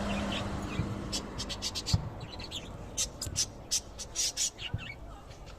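Small pet parrots chirping: a quick run of short, high calls that starts about a second in and goes on until near the end, with a few faint knocks.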